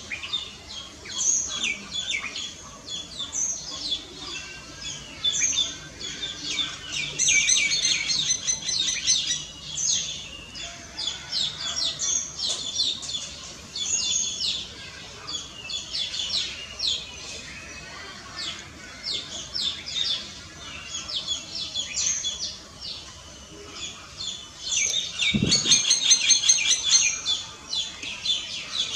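Common myna calling: a long run of rapid, varied chirps and chatter, busiest about a quarter of the way in and again near the end. A single low thump sounds near the end.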